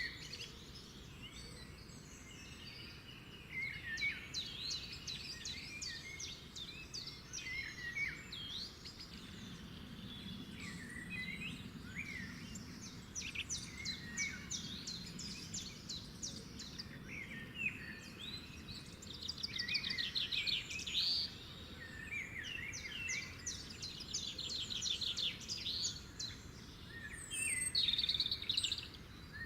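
Several birds singing at once: a dense, continuous mix of chirps, pitch glides and rapid trills, over faint low background noise.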